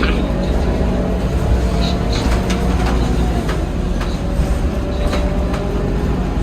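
Scania K230UB bus running: a steady engine and drive rumble with a faint whining tone that rises and then falls, and scattered short rattles.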